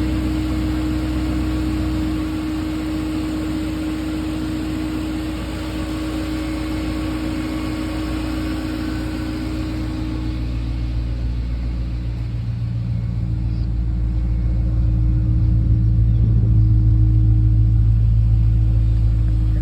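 BMW 540i's 4.4-litre V8 idling steadily shortly after a cold start. The low rumble grows louder in the second half.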